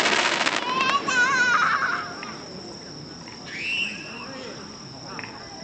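The crackling, noisy tail of an aerial firework shell's burst fades out over the first two seconds, while people's high voices call out. A steady trill of crickets runs underneath.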